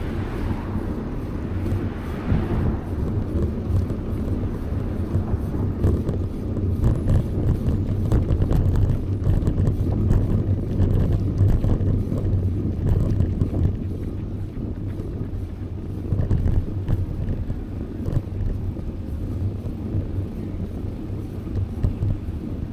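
Wind buffeting the microphone of a moving bicycle, a steady low rumble. A car passes during the first couple of seconds.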